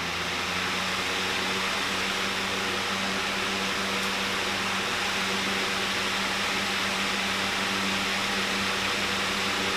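Small metal desk fan running on its high setting, its motor head freshly reattached after breaking off: a steady rush of air over a low motor hum, a touch louder just after the start and then even.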